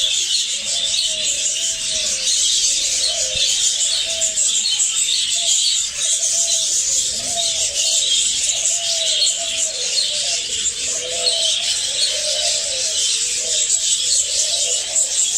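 A crowd of parrots chattering and chirping together in a dense, unbroken din, with short low cooing calls repeating about once a second underneath.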